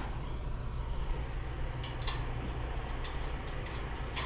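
Steady low hum of an engine running in the background, with a few light metallic clicks as a nut is tightened with a wrench.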